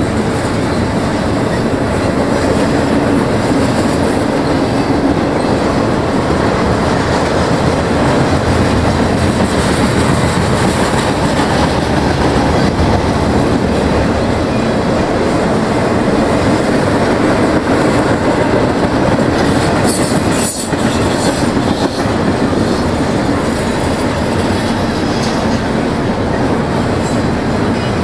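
Norfolk Southern intermodal freight cars rolling past close by: a steady, loud noise of steel wheels running on the rails. A brief high hiss comes in about two-thirds of the way through.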